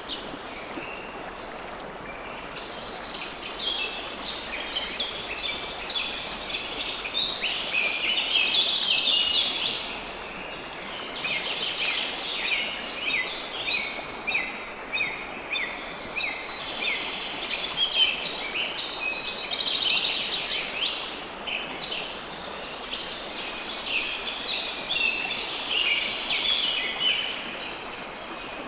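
River water flowing steadily under birdsong. Quick, high chirps from several birds come in bouts, with short lulls about 10 s in and near the end.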